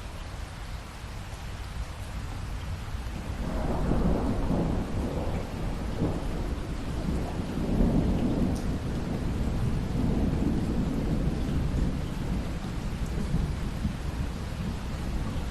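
Steady rain with a long rolling rumble of thunder that builds about a third of the way in, swells twice, and slowly dies away toward the end.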